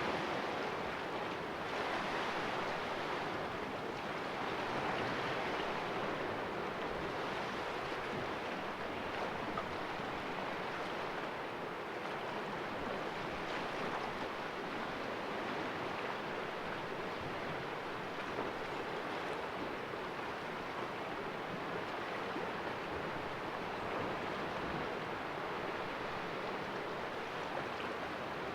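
Sea waves washing and splashing against the rocks of a small cove, a steady rush of surf that swells gently every few seconds.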